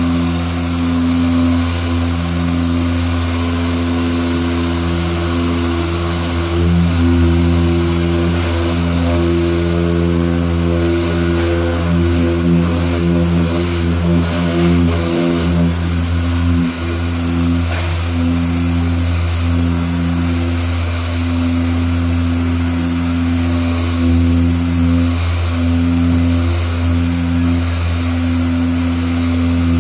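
Power sander running steadily on car body filler, a constant hum with a thin high whine whose middle tones waver as the pressure on the panel changes.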